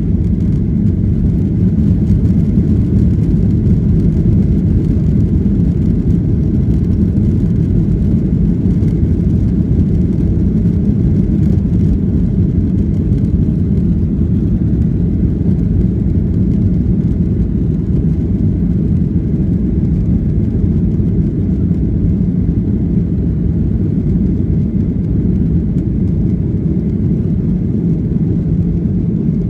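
Cabin noise inside a Boeing 737-800 at takeoff: its CFM56-7B turbofan engines and the rushing air make a steady, loud, deep rumble.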